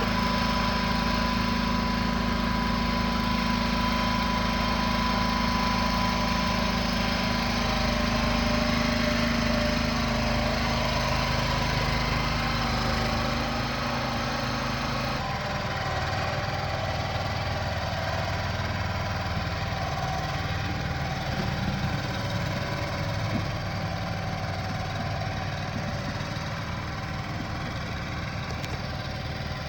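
An engine running steadily, its note changing abruptly about halfway through and then continuing slightly quieter.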